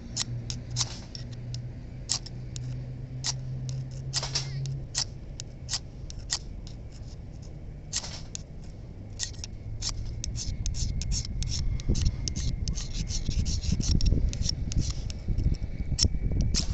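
Magnesium fire-starter rod being scraped and struck again and again with a metal striker: short, sharp, irregular rasps, the repeated tries of a first-time user to throw sparks into magnesium shavings. A low rumble rises under it from about ten seconds in.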